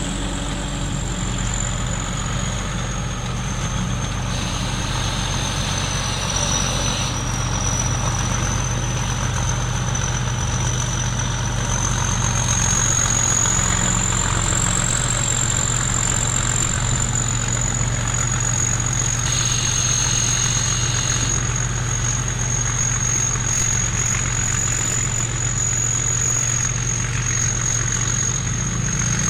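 Thai Seng Yont rice combine harvester running steadily as it harvests, a steady engine drone with a high thin whine over it that drifts slightly up and down in pitch.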